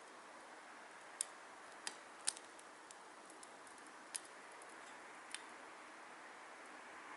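Wood fire burning in a Solo Stove Titan: a soft steady hiss with a handful of sharp crackles and pops from the burning wood at irregular intervals.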